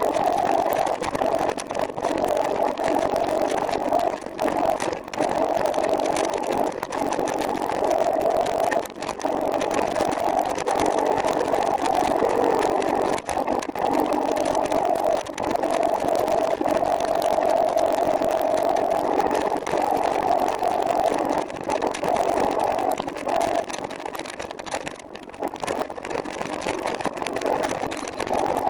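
Steady riding noise from a recumbent trike on the road, a continuous rushing sound with a wavering mid-pitched hum running under it.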